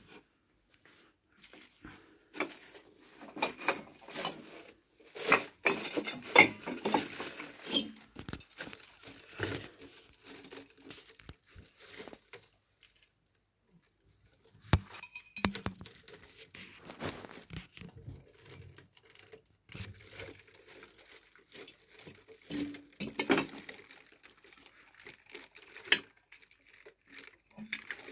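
A cat and mice scuffling: irregular scratching, rustling and light knocks, with a pause of a couple of seconds about halfway.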